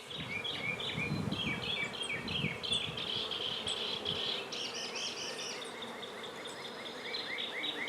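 Honey bees buzzing as a steady hum around an open hive.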